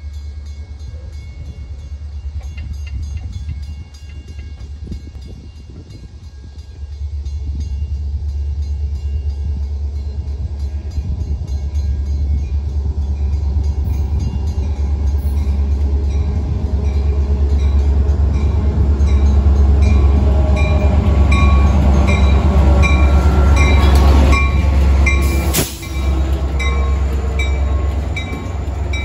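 Metra commuter train's diesel locomotive approaching and passing, its engine rumbling louder as it nears. In the second half a grade-crossing bell rings steadily, and the train sounds its horn.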